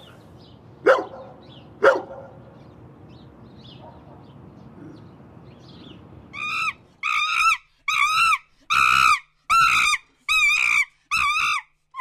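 A dog barks twice, sharply, about one and two seconds in. Later comes a run of seven high, wavering yelping calls, about half a second each, with dead silence between them.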